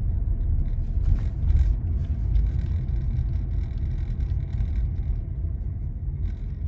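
Car cabin noise while driving: a steady low rumble of road and engine inside the car, with a few faint knocks about a second in.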